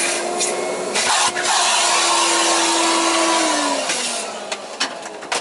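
Electric vacuum cleaner running with a loud rush of air and a steady hum, used to clean off dust. About three and a half seconds in it is switched off and the motor's hum slides down as it winds down, with a few knocks near the end.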